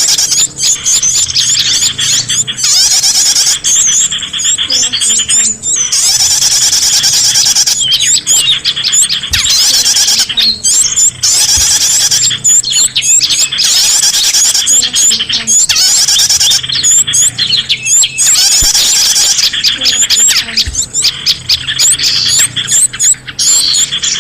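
A rowdy chorus of many small birds chirping and twittering at once, with fast, overlapping high chirps and trills that never let up: a lure recording of agitated small birds used to draw other small birds in.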